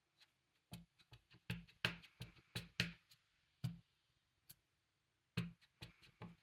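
Faint, irregular light taps and clicks of small craft items being handled and set down on a work table, in a quick flurry with a pause of about a second midway.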